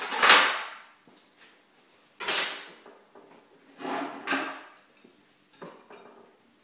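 Tools and other hard objects clattering and knocking as they are handled and set down on a workbench: four separate clatters with short rattles, the loudest at the start and the last one weaker.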